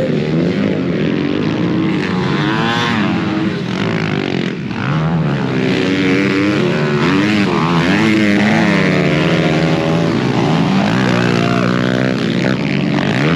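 Several pit bike engines racing together, revving up and down as the riders work the throttle through the track, their pitches overlapping and gliding.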